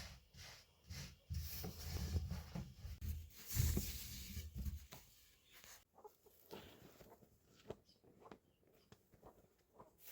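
Chickens clucking, with a low rumbling noise over the first half.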